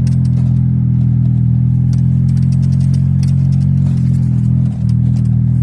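Golf cart running as it is driven, a steady low drone with light clicks and rattles over it; the drone dips briefly near the end.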